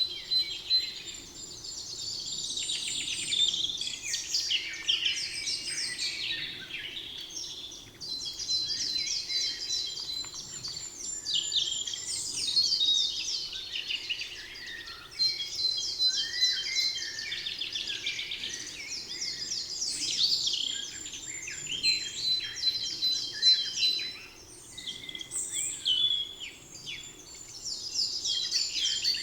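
Songbirds singing: a long, fast, trilled song phrase repeats about every seven seconds, with shorter chirps and calls from other birds between the phrases.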